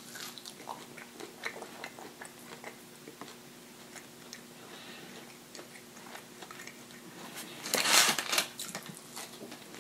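Close-miked chewing of fried fast food, soft crunches and small wet mouth clicks. Near the end, a louder, brief rustle of wrapper paper as a hand reaches into the fries.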